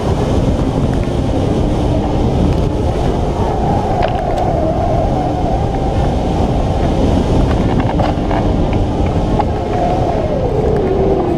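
Strong wind rushing over a microphone on a hang glider in flight, with a faint whistling tone that wanders up and down in pitch.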